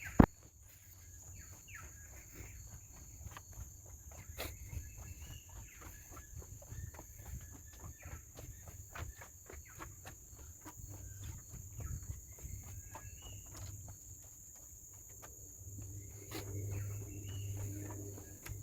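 Footsteps crunching along a forest trail, about two steps a second, under a steady high-pitched drone of insects, with repeated chirping calls from insects or birds.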